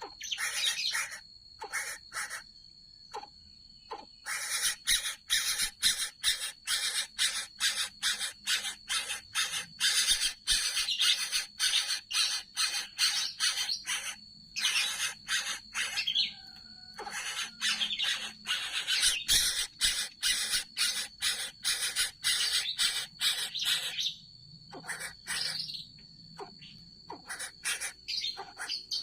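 Young coucal chick giving long runs of harsh, rasping calls, about three a second, broken by short pauses a few seconds in, around the middle and near the end. A faint steady high whine sounds underneath.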